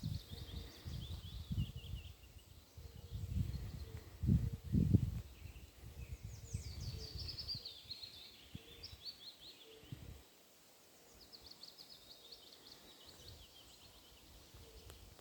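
A songbird singing three trilled songs, each a falling run of rapid notes lasting about two to three seconds: one at the start, one in the middle and one near the end. Low rumbling thumps run through the first half and are loudest about four to five seconds in.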